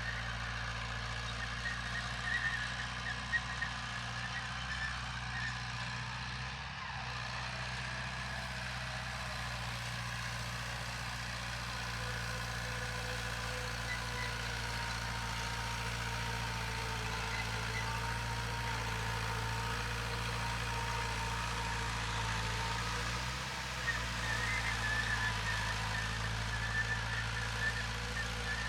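Heavy diesel construction machinery running steadily, a continuous low engine drone.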